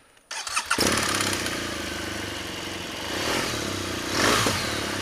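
BMW R1200GS flat-twin (boxer) engine starting: a short crank under a second in, then it catches and runs at idle, swelling louder twice around three and four seconds in.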